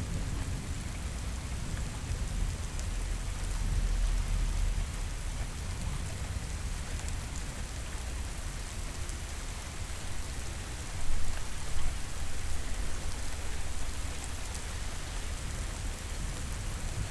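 Steady heavy rain hissing, with low thunder rumbling beneath it. The rumble swells a few seconds in, and there are two short louder bumps about two-thirds of the way through.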